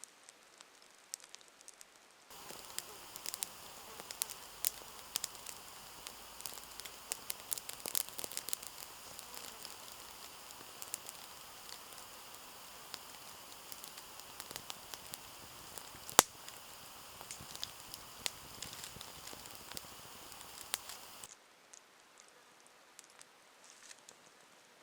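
Campfire burning and crackling, with many sharp pops and one loud pop about two-thirds of the way through. It starts abruptly a couple of seconds in and cuts off near the end, leaving only faint scattered ticks.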